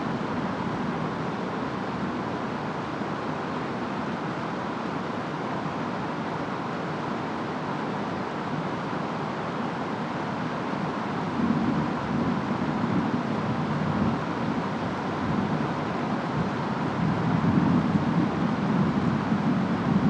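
Steady storm noise of rain and wind. From about halfway in, it grows louder with low rumbling swells that peak near the end.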